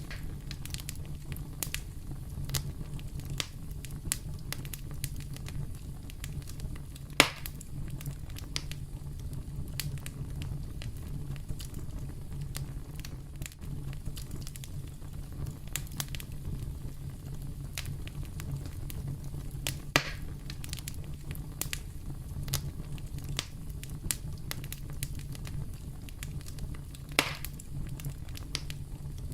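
Wood campfire burning and crackling, with many small snaps over a low steady rumble and three louder pops, about 7, 20 and 27 seconds in.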